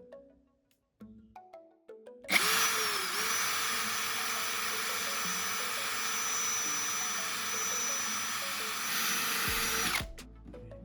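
An electric power tool switches on about two seconds in, runs at a steady speed with a constant whine for about eight seconds, then winds down near the end. Soft mallet-like music notes play before it starts.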